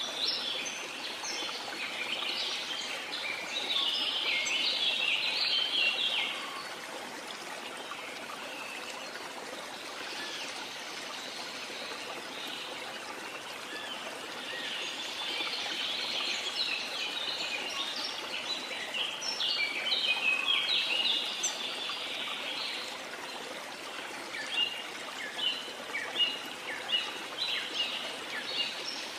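Steady rush of a waterfall with many birds chirping over it, the chirping coming in busy spells and as separate quick chirps near the end.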